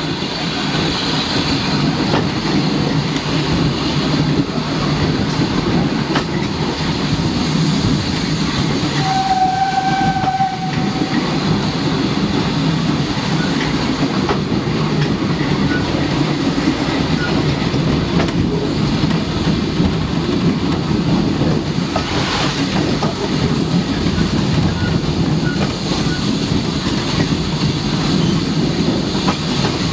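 Train running along the rails with a steady rumble and wheel clatter. About nine seconds in, the train sounds one short, single-pitched toot on its whistle.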